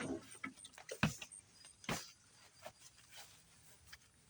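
A few sharp clicks and knocks, the loudest about one second and two seconds in, with fainter ticks between them over a low background hush.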